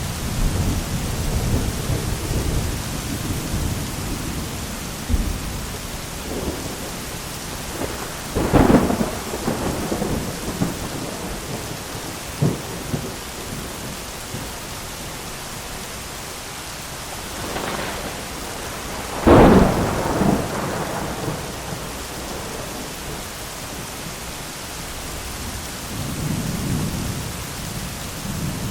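Steady heavy rain with rolling thunder: two sharp, close thunder cracks, about a third of the way in and again, loudest, about two-thirds of the way in, each trailing off in a rumble, with low distant rumbling at the start and near the end.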